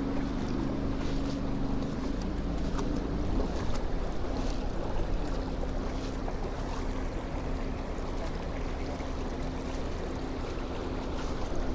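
Wind buffeting the microphone over a steady rush of floodwater, with a steady low hum underneath that fades after about two seconds and returns from about five seconds in.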